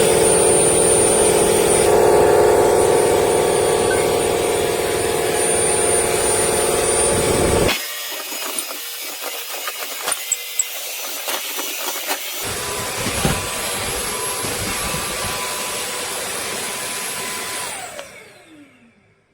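BISSELL CrossWave OmniForce wet-dry floor vacuum running with a steady motor whine, its sound thinning out for about five seconds in the middle. Near the end the motor winds down with a falling pitch and stops.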